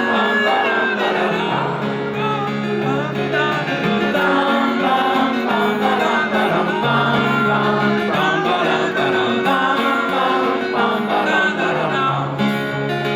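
Live acoustic band music led by guitar, playing between sung verses with no lyrics.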